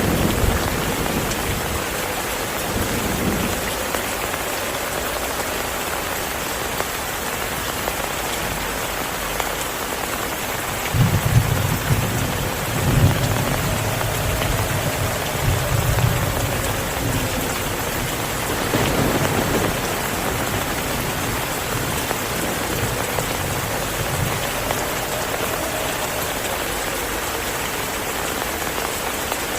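Steady heavy rain, with low thunder rumbling for several seconds about a third of the way in and briefly again a little later.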